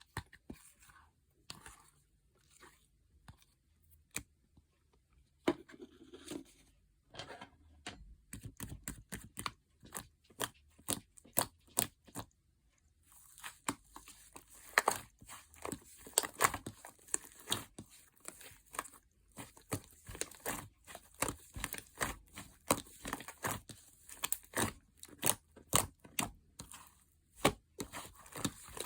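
Soft, fluffy slime being pressed and squished by hand, giving sticky pops and crackles. They are sparse at first, then come thick and fast from about a third of the way in.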